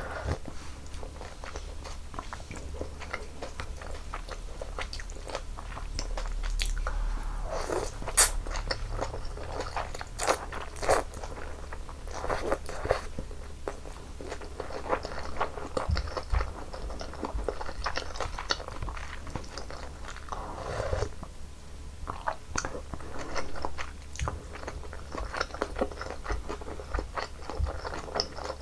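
Close-miked eating of janchi guksu, Korean noodles in hot broth: chewing and biting, with many small wet mouth clicks throughout.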